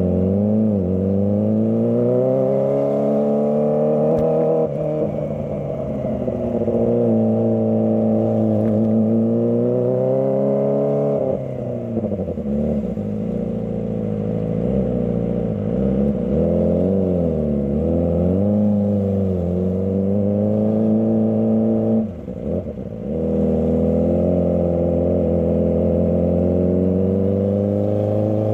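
Kawasaki ZX25R's 250 cc inline-four engine revving up and down over and over as the throttle is opened and closed. The note drops sharply about 11 seconds in and again near 22 seconds in, then climbs again.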